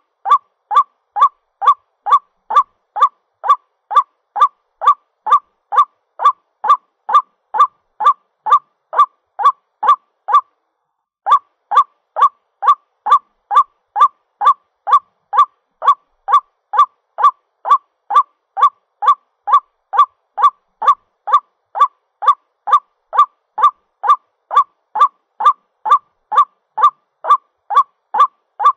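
White-breasted waterhen (ruak-ruak) call played as a lure recording: a short honking note repeated evenly about twice a second, with a brief break about ten seconds in. The call is a waterhen calling for a mate.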